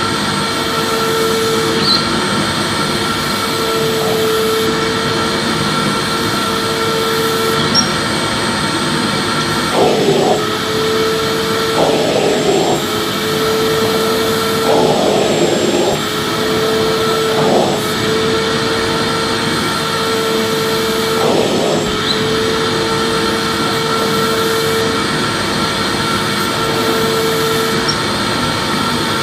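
Vacuum cleaner running continuously: a steady motor whine over the rush of air, with a few brief shifts in the sound through the middle.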